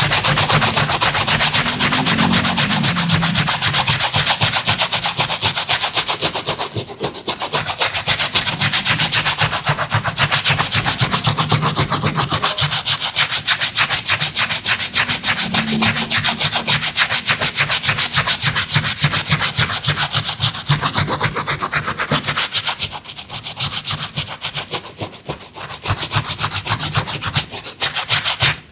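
A brush scrubbing a sneaker in fast, continuous strokes, with brief lulls about a third of the way in and again near the end.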